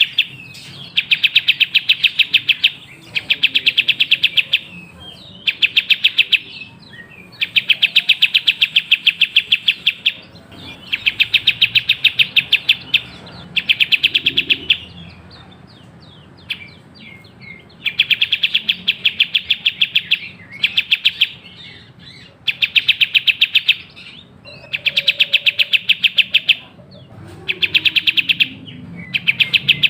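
Kapas tembak (a bulbul-type songbird) singing in rapid chattering bursts, each a fast, even run of high chirps lasting about two seconds, repeated with short pauses between. This is a lure recording meant to set caged birds singing.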